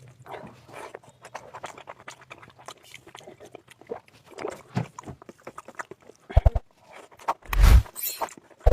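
Close-miked chewing: wet mouth clicks and smacking as a person eats a rice and curry meal, with two louder knocks near the end.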